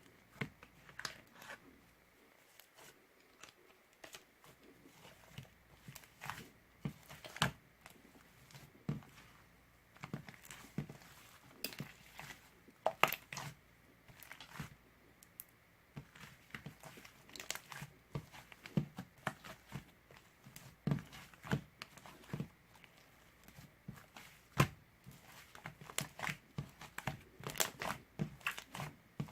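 Irregular crinkling and rustling with scattered light clicks, as something thin is handled and crumpled at close range.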